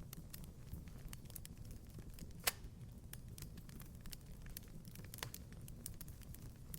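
Fireplace crackling: scattered small pops and snaps over a low steady rumble, with one louder pop about two and a half seconds in.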